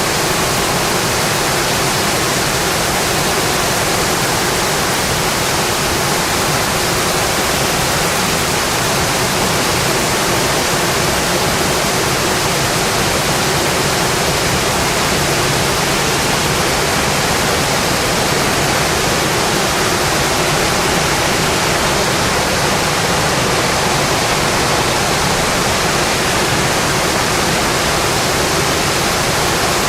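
Rain falling steadily on a metal roof: a dense, even hiss that does not let up.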